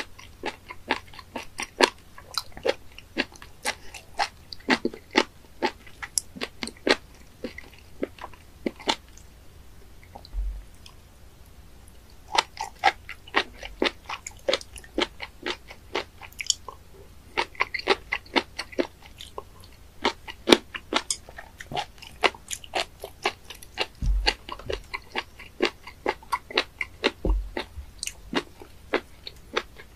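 Close-miked chewing of raw gaebul (fat innkeeper worm, 'penis fish'): wet, crunchy bites and clicks a few times a second, with a short lull about ten seconds in. A few low thumps come through near the middle and toward the end.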